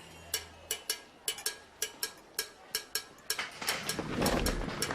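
A run of short, sharp taps, about three a second, with a duller noise building under them in the last two seconds.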